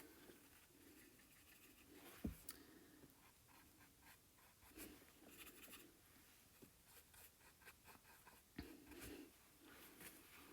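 Faint scratching and dabbing of a small paintbrush laying acrylic paint, with two light knocks, about two seconds in and again near the end.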